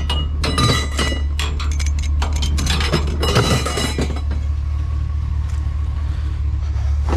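Scrap metal clinking and clattering as it is picked through and handled in a trash bin, with many sharp knocks in the first four seconds and fewer after. A steady low hum runs underneath.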